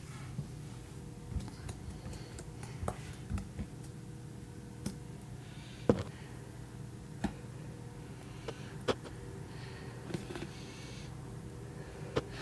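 Slime being poked slowly with one finger: scattered soft clicks and small sticky pops, about fifteen spread unevenly, the loudest about six seconds in, over a faint steady hum.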